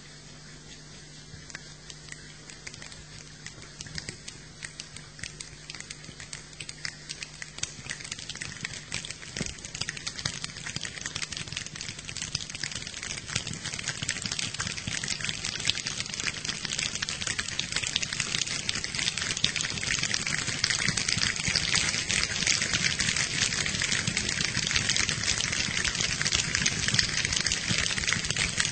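A group of people imitating rain with their hands: scattered small clicks that grow steadily denser and louder, like a rain shower building up.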